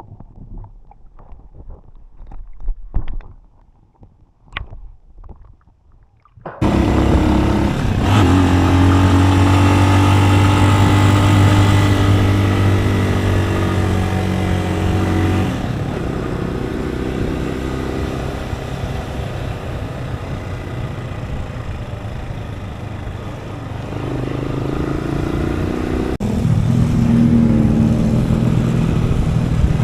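An engine running steadily, cutting in abruptly about six and a half seconds in after a few faint knocks, its pitch and loudness shifting a few times.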